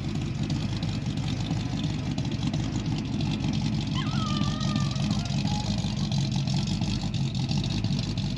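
Ford 347 stroker small-block V8 idling steadily as it warms up after a cold start, running through shorty headers. A short whistle-like tone sounds about four seconds in.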